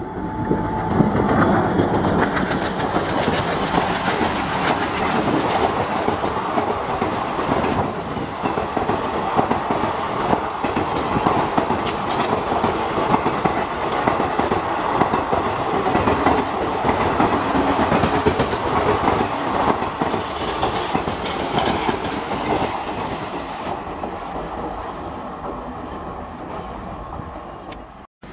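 A passenger train hauled by an EMD diesel locomotive rolls past, with the wheels clacking steadily over the rail joints. The sound fades over the last few seconds as the train draws away.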